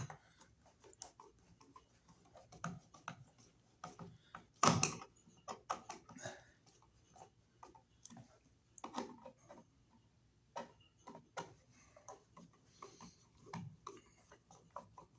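Scattered small clicks and light knocks of a screwdriver and metal parts as an electrical outlet is screwed into its box by hand. The loudest knock comes about five seconds in.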